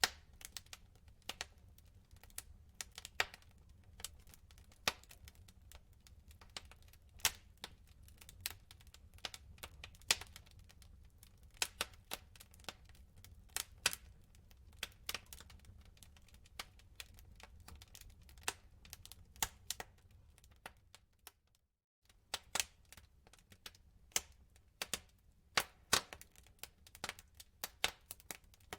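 Wood fire in a fireplace crackling, with irregular sharp pops and snaps from the burning logs over a low steady rumble. The sound cuts out briefly about two-thirds of the way through.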